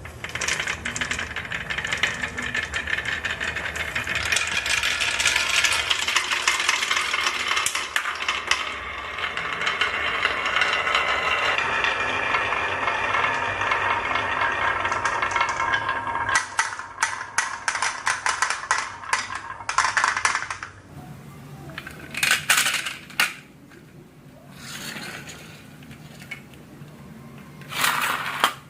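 Many marbles rolling and clattering down a marble run track in a dense rattle, thinning to separate clicks about two-thirds of the way through, then a few short bursts of clatter near the end.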